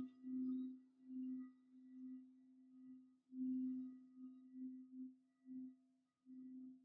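Singing bowl ringing with one low sustained tone and a few faint higher overtones, pulsing and wavering in loudness. It fades almost away about three seconds in and then swells up strongly again.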